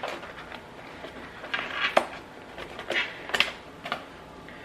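A takeout food bowl and its packaging being handled and opened, giving a few sharp crinkles and clicks, the loudest about two, three and three and a half seconds in.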